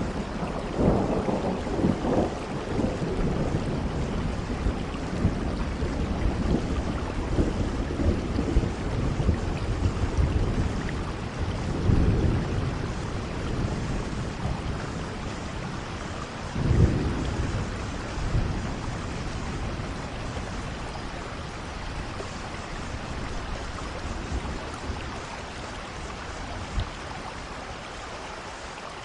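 Steady rain with low rolls of thunder that swell and fade several times, the sharpest a little past halfway; the rumbling dies down toward the end, leaving the rain.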